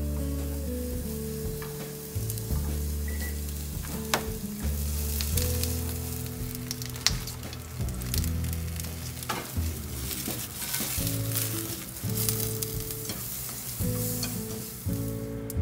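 Vegetables sizzling in oil in a frying pan, the sizzle growing louder and denser from about halfway through, with a few sharp clicks of handling. Light background music plays throughout.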